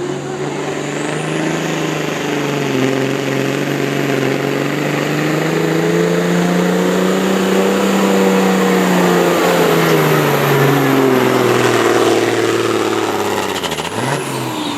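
Competition pulling vehicle's engine run at full throttle under load during a pull, its note climbing slowly, holding, then sagging, with a thin high whistle over it. The engine drops off sharply near the end as the run ends.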